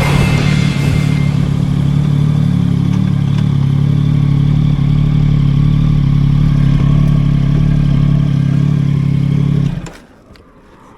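Yamaha MT-09's three-cylinder engine running hard at steady revs while the bike is ridden, holding one even pitch, then cut off suddenly about ten seconds in.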